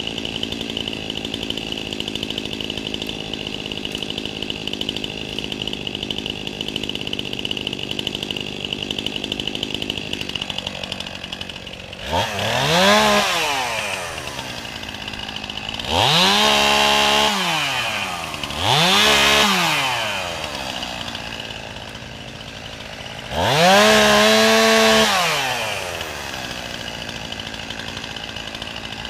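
Chainsaw engine idling steadily, then throttled up four times in the second half, each time rising in pitch, holding for a second or two and dropping back to idle.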